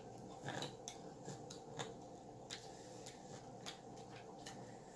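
Children eating chicken nuggets: faint, scattered clicks and smacks of chewing, over a low steady hum.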